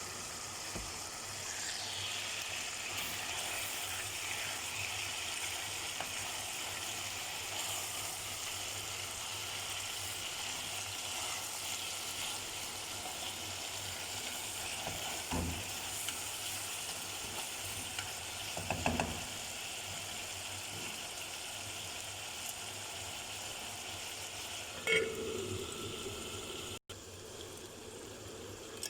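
Food sizzling steadily as it fries in a hot pan, with three brief knocks, likely a utensil against the pan while stirring, about halfway through and near the end.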